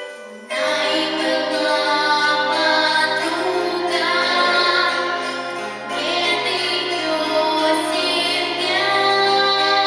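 A girl singing a children's pop song over instrumental accompaniment. It comes back in after a brief drop about half a second in.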